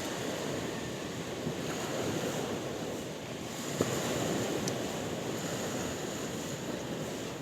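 Sea waves washing on a shore: a steady rushing wash that swells and eases, with one brief click a little before the middle.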